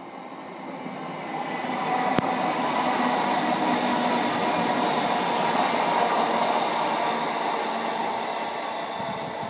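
Class 322 electric multiple unit passing: wheel-on-rail rumble with a steady whine over it, building over the first two seconds, loudest in the middle, then slowly fading as the train draws away. One sharp click about two seconds in.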